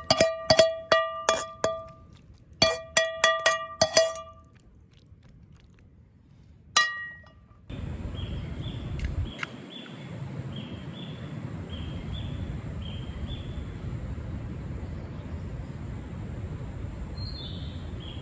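Metal ladle striking a wok in quick runs of ringing clangs, two runs in the first four seconds and a single strike near seven seconds, typical of stir-frying over high heat. At about eight seconds the sound changes to steady outdoor ambience with a repeated chirping.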